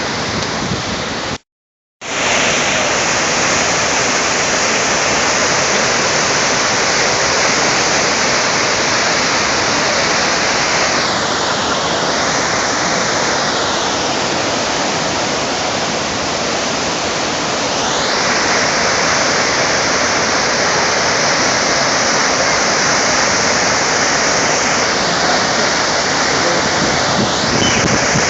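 Sa'ar waterfall in winter spate: a heavy, steady rush of falling water. The sound cuts out for about half a second near the start, then resumes.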